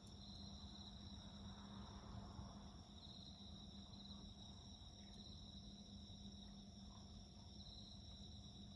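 Faint steady chirring of crickets and other insects at several pitches, one of them pulsing, over a low steady hum. A few tiny crackles from a small wood fire.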